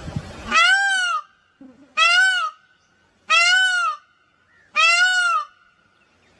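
A bird calling four times, each call about half a second long, rising then falling in pitch, spaced about a second and a half apart.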